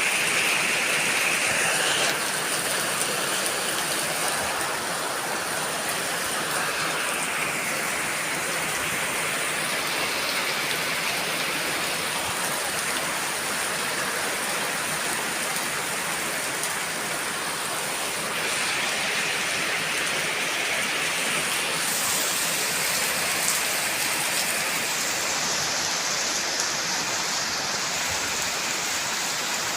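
Heavy rain falling, a dense steady hiss whose tone shifts abruptly a few times.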